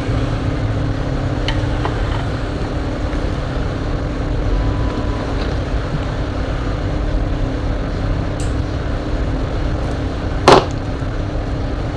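Steady low background rumble with a faint hum, a few light clicks of parts being handled, and one sharp knock about ten and a half seconds in.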